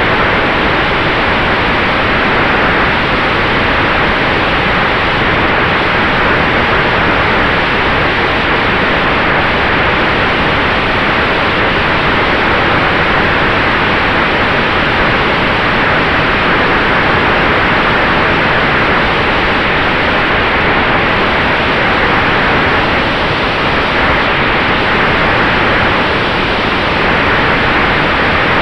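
Steady rushing noise of airflow and propeller heard on board an electric-powered Sonex Xenos airplane in flight, with a faint steady tone under it.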